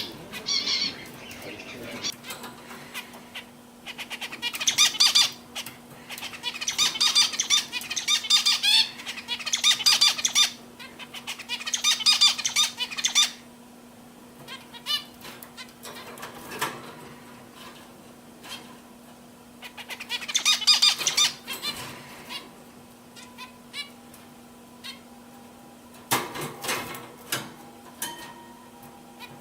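Canaries singing in bursts of fast, high trills, several phrases with pauses between, over a steady low hum.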